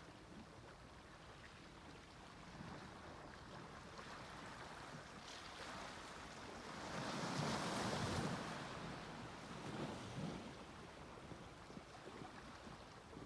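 Sea waves washing onto a beach. One wave breaks and surges about halfway through, the loudest moment, and a smaller wash follows shortly after.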